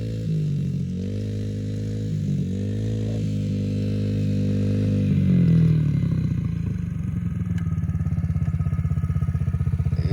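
Yamaha TT-R110 dirt bike's 110cc four-stroke single-cylinder engine running, its pitch rising and falling several times, then settling about six seconds in to a steady, evenly pulsing idle.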